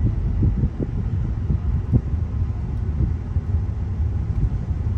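Inside a moving car: a steady low rumble of road and engine noise, with a few light knocks.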